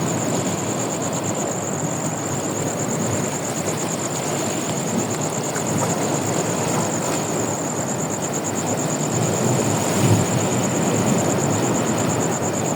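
Steady roar of sea surf, with a continuous high pulsing whine over it.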